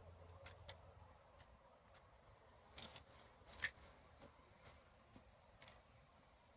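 Scattered sharp clicks and snaps, singly and in quick pairs, with the loudest cluster about halfway through.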